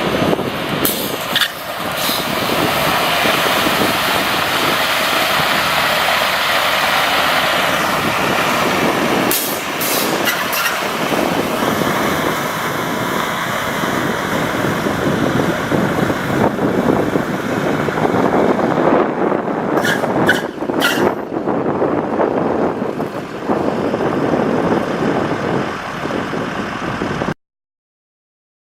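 2005 International 4300 water truck running, with a loud, steady hissing rush and a few sharp clicks. The sound cuts off suddenly near the end.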